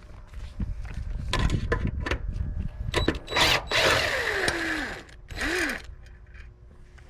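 Power drill running in two bursts: a longer run whose motor pitch falls as it winds down, then a short second pull of the trigger. Before that, clicks and knocks of tools and parts being handled.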